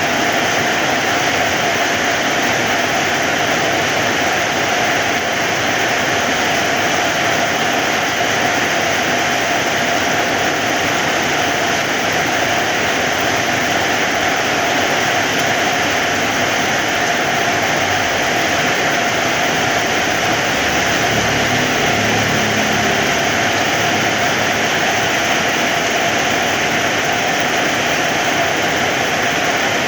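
Heavy rain falling steadily: a dense, even hiss of raindrops that holds the same level throughout.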